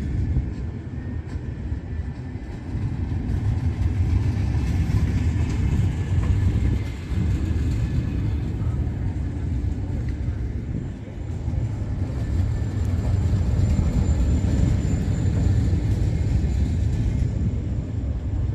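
Steady low rumble of a train running, with the level wavering and dipping briefly twice.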